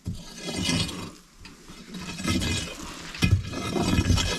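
Irregular scraping and rustling with a few sharper knocks, louder from about three seconds in.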